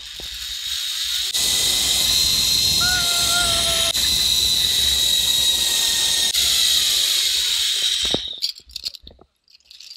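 Zipline trolley pulleys running along a steel cable at speed: a steady high whine over rushing wind noise. It builds over the first second, holds, and ends with a knock about eight seconds in.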